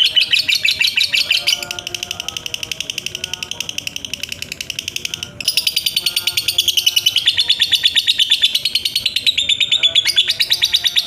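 Lovebird's long 'ngekek' chattering trill: a fast, unbroken string of shrill chirps, dropping in level about a second and a half in and growing louder again about five seconds in.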